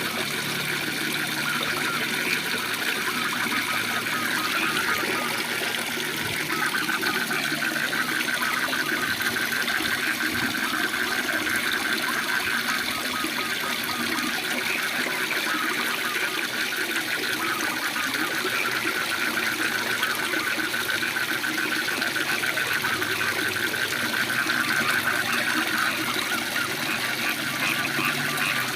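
Steady rush of a waterfall, with a chorus of frogs calling in rapid pulses over it.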